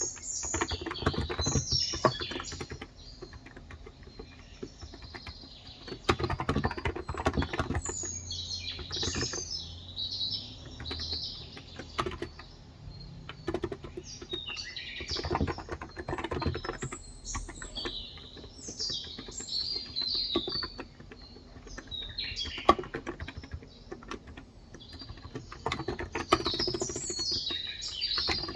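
Typing in bursts on a Cox Endeavor tenkeyless keyboard with 35 g electro-capacitive (non-contact) switches: runs of key clicks with pauses between them. Birds chirp repeatedly and high-pitched through it.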